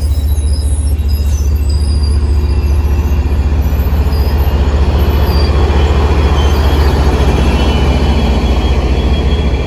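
MBTA commuter train passing close by, its wheels on the rails making a loud, steady rumble.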